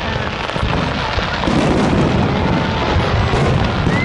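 Aerial fireworks shells bursting over and over in a dense, unbroken barrage.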